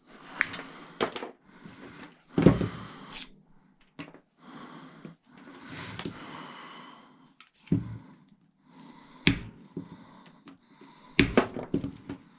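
Small pieces of scrap metal and wire being handled and sorted: a dozen or so sharp clacks and knocks, with a quick cluster near the end and scraping and rustling between them.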